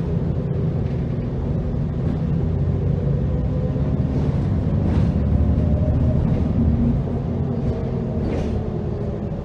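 Heuliez GX327 GNV city bus's compressed-natural-gas engine running under way, a steady low drone that grows louder about halfway through and eases off again about seven seconds in.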